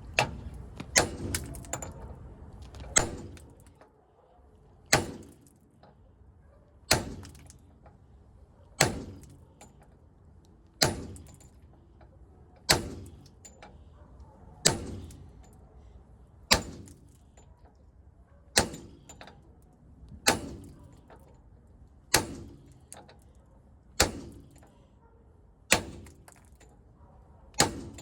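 Repeated hammer blows on metal, a steady rhythm of about one strike every two seconds, each with a short metallic ring as it fades.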